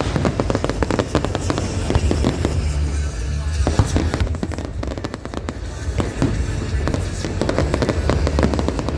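Fireworks bursting and crackling in quick, irregular succession, with music playing underneath.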